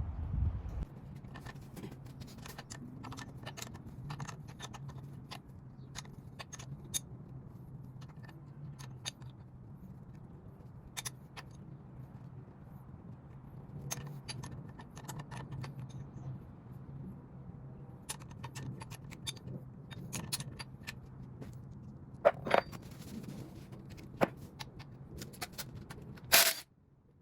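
Scattered metallic clicks and clinks of hand tools and bolts being handled on a small-block Ford engine, over a steady low hum. There is a louder clatter near the end.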